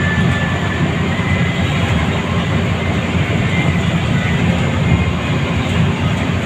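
Scania L94UA bus on the move, heard from inside the cabin: a steady low engine drone mixed with road and tyre noise.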